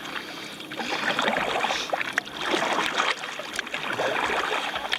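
Kayak paddle strokes splashing in the water, the splash noise swelling and fading in a steady rhythm about once a second.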